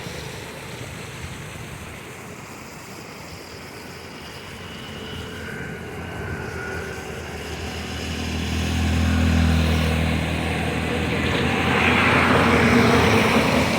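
Outdoor noise with a motor's hum that swells and fades about eight to eleven seconds in, followed by a louder rushing hiss near the end.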